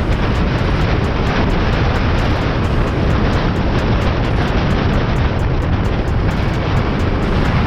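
Heavy wind rushing over the microphone of a rider moving at speed on an electric dirt bike, a steady deep rumble that covers every other sound.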